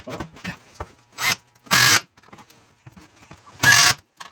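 A few short bursts of tool and handling noise from woodworking, each under half a second, with the two near the middle and near the end the loudest.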